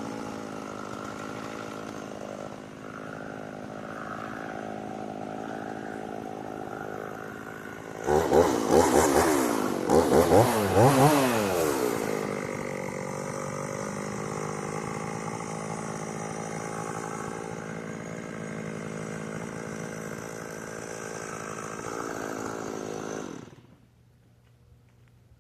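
Stihl two-stroke chainsaw running, revved hard in several bursts about 8 to 12 seconds in, then running steadily again until its engine stops near the end.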